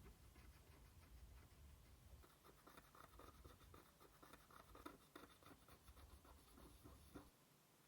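Faint, rapid, scratchy strokes of a small brush scrubbing a PS4 Slim motherboard.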